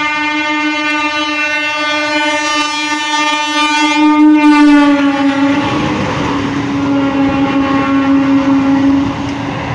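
Electric passenger train sounding one long horn blast as it passes close by. The horn's pitch drops slightly about halfway through as the train goes past, and the horn stops near the end. In the second half the rumble and clatter of the wheels on the rails grows.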